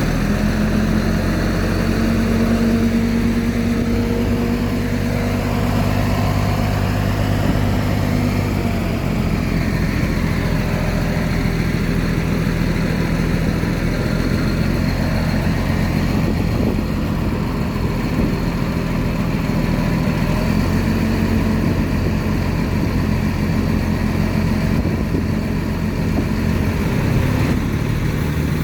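Heavy diesel engine of earthmoving machinery running steadily, its engine note shifting about nine seconds in and again near the end.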